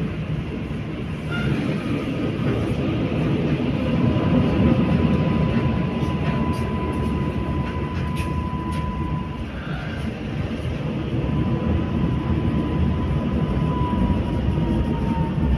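Passenger train running on rails with a steady low rumble. A thin high whine sets in partway through and sags slightly in pitch near the end, with a few faint clicks in the middle.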